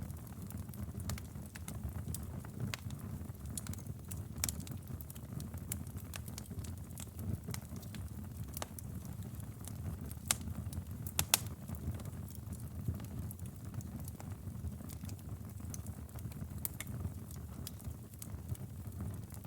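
Campfire burning: a steady low rumble of flames with scattered sharp crackles and pops of the burning wood, the loudest pops a little past the middle.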